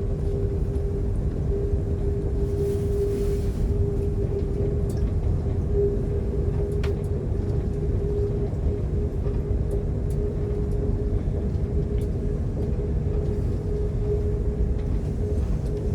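Moving passenger train heard from inside the carriage: a steady low rumble of wheels and running gear with a constant hum on top and a few faint clicks.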